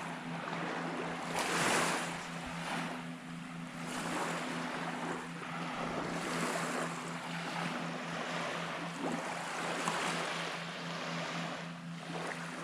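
Small waves breaking and washing up a sandy beach, the surf noise swelling and fading every two to three seconds, over a steady low hum.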